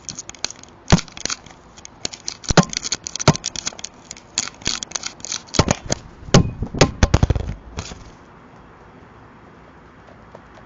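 A crow pecking and scratching at an Arlo security camera, close to its microphone: a quick run of sharp taps and scrapes, with heavier knocks about six to seven and a half seconds in. It stops about eight seconds in, leaving a steady hiss.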